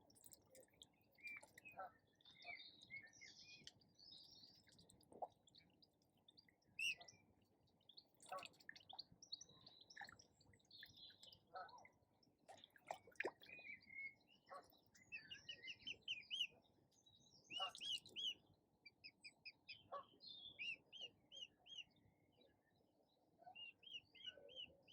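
Faint songbirds chirping and singing throughout, with many short high calls and quick runs of repeated notes.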